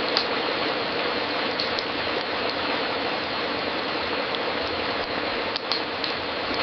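Wood fire crackling in a fireplace: a steady hiss with a few scattered sharp pops, the loudest just after the start and a pair close together near the end.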